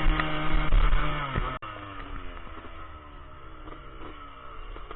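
Yamaha Blaster 200's single-cylinder two-stroke engine running at steady, loud revs. About a second and a half in it breaks off suddenly, and the engine goes on quieter with its pitch slowly falling.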